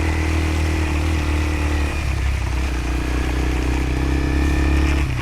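Off-road motorcycle engine running at a steady throttle, with a brief dip about two seconds in before it settles back to a steady note.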